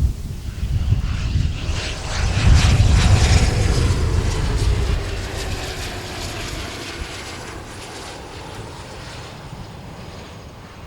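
An aircraft's engines passing close, loudest a few seconds in, their pitch sliding down as it goes by, then fading away steadily.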